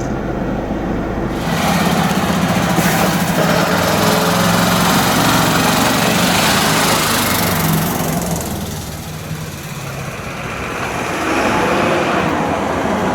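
A vehicle's engine running, growing louder about a second and a half in, easing off around eight seconds and swelling again near the end.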